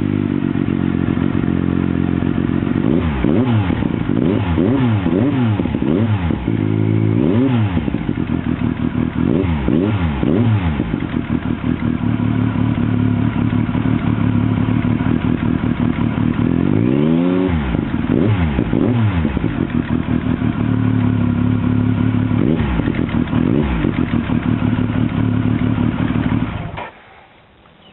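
Triumph Sprint ST 955i's inline three-cylinder engine idling through a new aftermarket exhaust with the baffle removed, with a run of quick throttle blips in the first ten seconds, one longer rev about seventeen seconds in and a few more blips. The engine is switched off near the end.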